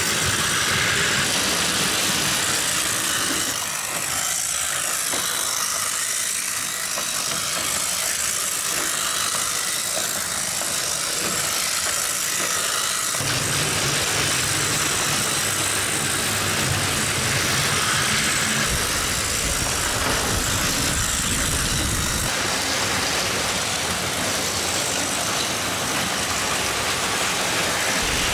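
Battery-powered Plarail toy trains and Motor Tomica toy cars running steadily on plastic track, small motors and wheels going together. A deeper rumble joins for several seconds in the middle as a toy engine passes close.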